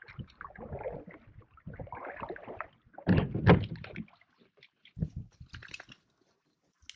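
Canoe being brought to shore: irregular knocks and scrapes against the hull, with a louder cluster of hollow thuds about three seconds in.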